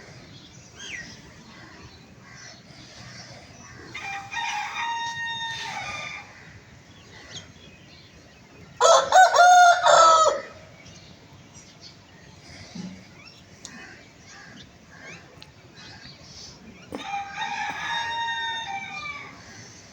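Rooster crowing three times: about four seconds in, near the middle, and near the end, each crow lasting about two seconds, with the middle one the loudest.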